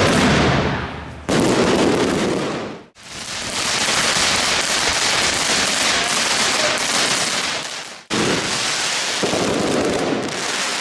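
Fireworks going off in a dense, unbroken barrage, in several clips joined with sudden cuts about one, three and eight seconds in.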